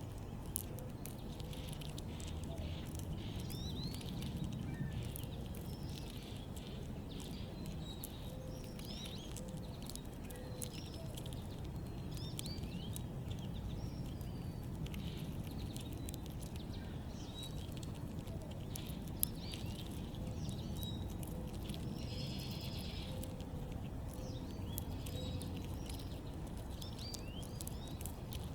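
Small backyard birds chirping with many short, quick calls, along with scattered light clicks and taps, over a steady low rumble of outdoor background noise.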